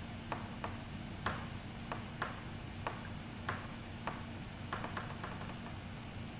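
A dozen or so short, sharp clicks at irregular intervals over a steady low electrical hum, from play at a computer during a fast online chess game.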